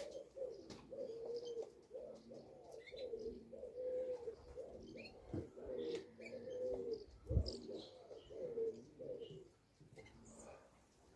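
Several pigeons cooing over and over, with overlapping coos and a few faint chirps, and a single low thump a little over seven seconds in.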